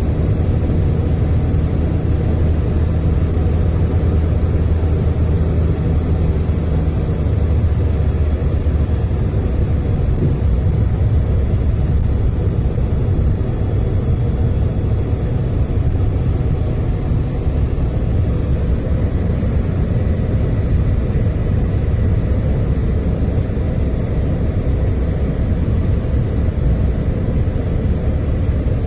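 Car driving along a snowy winter road: steady low rumble of engine and tyre noise, with a faint engine hum in the first several seconds.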